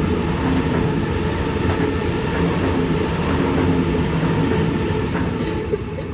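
Sydney Trains A set (Waratah) electric train passing through the station: a loud, steady rush of wheels and motors that eases off slightly near the end.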